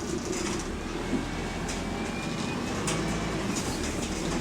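Single-deck bus interior while moving: steady engine and road noise with light rattles, and a faint high whine about halfway through.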